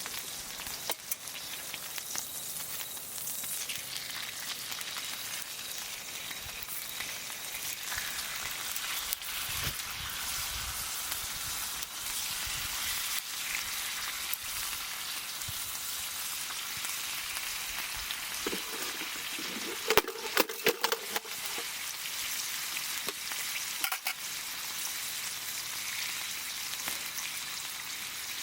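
Food cooking over a wood campfire: a steady sizzle with fine crackling, and a quick run of louder pops about twenty seconds in.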